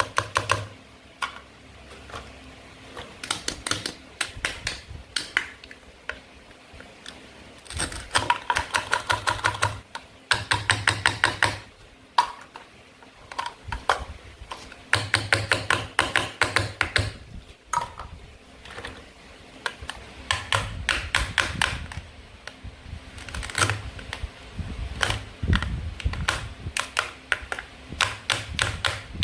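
Rapid runs of sharp clicking taps, about ten a second, stopping and starting every second or two: a toy knife chopping through plastic or wooden play food on a cutting board.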